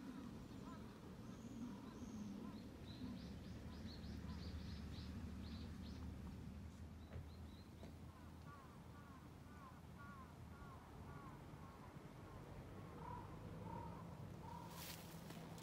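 Birds calling: a quick run of high chirps, then series of short repeated calls, over a low steady rumble, with a few sharp clicks near the end.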